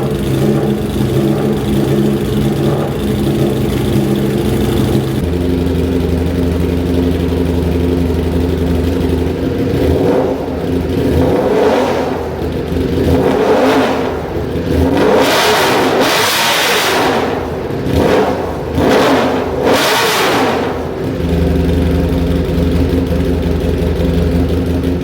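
Ducati Streetfighter V4 S's V4 engine through an Akrapovič exhaust, idling steadily, then blipped several times in a row through the middle, the revs rising and falling, before settling back to idle near the end.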